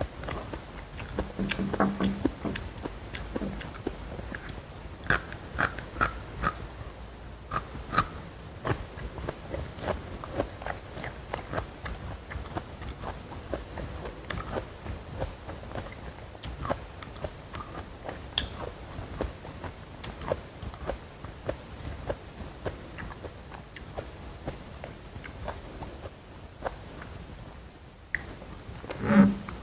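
Close-miked eating: crunchy bites and chewing with a scatter of sharp crackles and wet mouth clicks, busiest a few seconds in, and a short low mouth sound, like a gulp, about two seconds in and again near the end.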